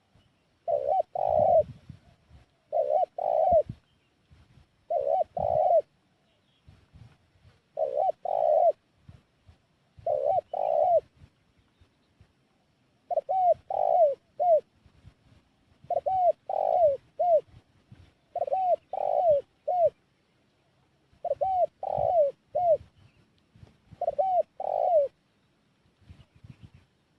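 Spotted dove (tekukur) cooing: short phrases of two or three arched, hollow coos, repeated about every two to three seconds.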